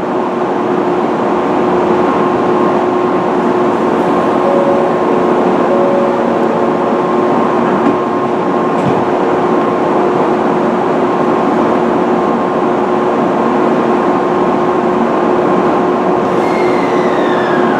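Tokaido Shinkansen train standing at the platform, its on-board equipment giving a steady rushing hum with two held tones, one low and one higher. Near the end a short falling whine.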